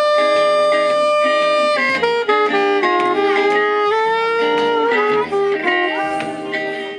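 Gypsy jazz (jazz manouche) band playing live: a lead line holds one long note, then about two seconds in moves into a phrase of changing and sliding notes over rhythm guitar accompaniment.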